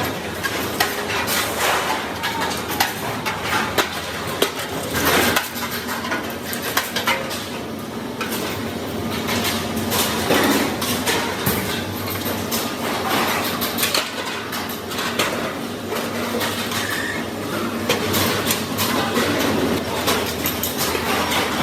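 Sheet metal being worked by hand: many quick, irregular metallic knocks, taps and clinks.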